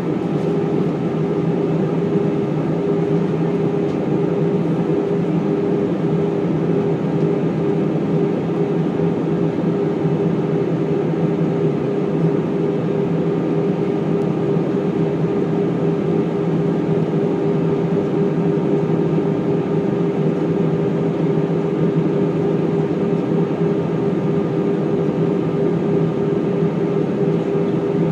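Airbus A319 cabin noise in flight: the steady drone of the jet engines and airflow, with a steady low hum running through it.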